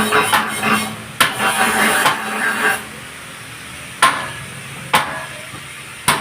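Sharp metal knocks and clatter of tools on parts of an Isuzu 4HG1 diesel engine being torn down for overhaul. It is a busy clatter for the first few seconds, then single knocks about a second apart near the end.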